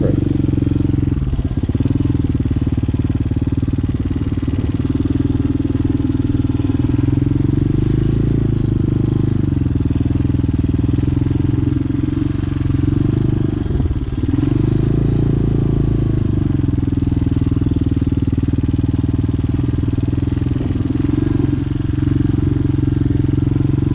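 Motorcycle engine running at low revs during slow maneuvering, the revs dipping and picking up again a few times, most clearly about a second and a half in and again about 14 seconds in.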